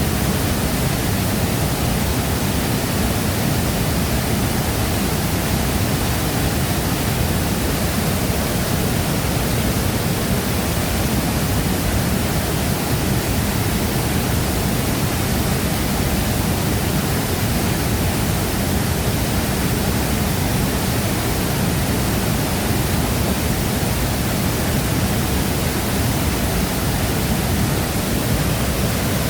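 Large waterfall crashing into its pool: a steady, dense rush of falling water with a deep low rumble, unchanging throughout.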